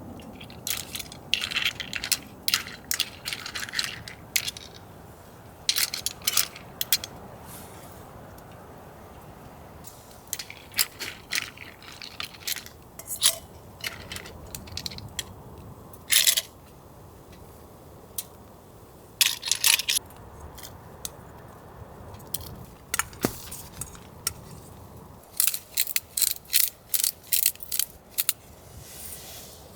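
Bursts of sharp clicks and clinks of hard shells knocking together, from mosi clams (Asian hard clams) being handled in a bowl while they are prepared for cooking. The clusters come and go, with the busiest stretches near the start, in the middle and near the end.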